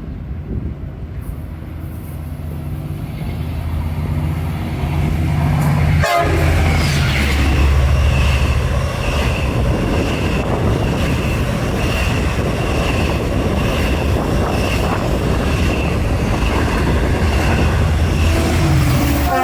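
A Long Island Rail Road diesel-hauled train coming in and passing close: the locomotive's engine rumble grows louder over the first several seconds, then the cars run by with rail noise. A bell-like ringing repeats a little more than once a second through the pass, and the horn starts to sound right at the end.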